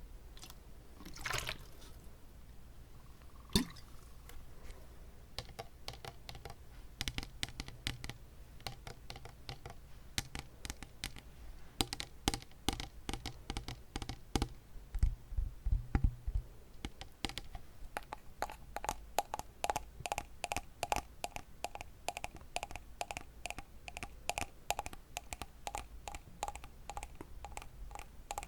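Close-up tapping on a water bottle: a fast, uneven patter of light clicks with a faint hollow ring. The tapping grows denser and more continuous after the first few seconds.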